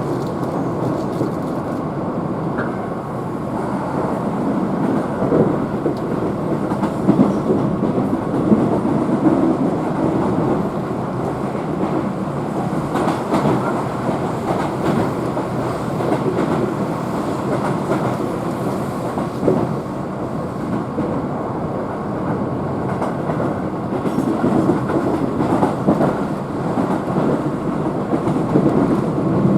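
Keihan electric train running along the line, heard from inside the passenger car: a steady rolling rumble with occasional clicks of the wheels over rail joints.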